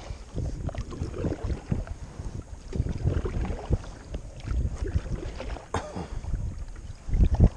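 Wind buffeting the microphone in gusts, an uneven low rumble that grows loudest near the end, over the paddling of a kayak headed into the wind.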